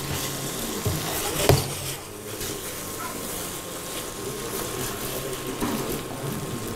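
Rice, vegetables and grated raw tomato sizzling as they fry in a large stainless steel pot, stirred with a spatula. A sharp knock about a second and a half in stands out, with a few fainter knocks later.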